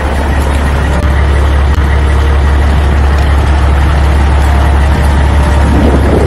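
Steady, loud, low engine rumble like an idling truck, unbroken throughout.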